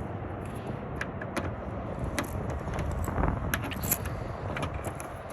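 Keys and metal lock parts being handled while a new car door lock is fitted: a scattered run of small metallic clicks and rattles, growing busier in the second half, over a steady low rumble.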